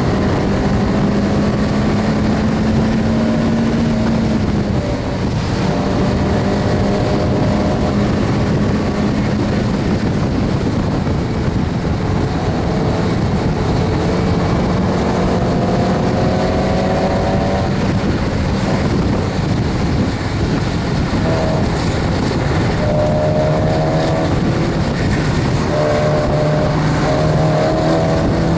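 A Mazda MX-5 Miata's four-cylinder engine at racing speed, heard from inside the cabin, over a steady rush of noise. The revs climb and fall back several times.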